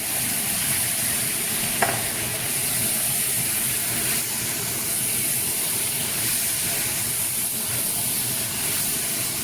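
Chicken pieces frying on high heat in a pan of onion, tomato and spices: a steady sizzle, with one short click about two seconds in.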